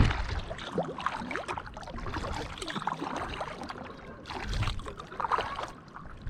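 Kayak paddle strokes in calm water: small splashes and water dripping and trickling off the paddle blades, with a slightly louder splash about four and a half seconds in.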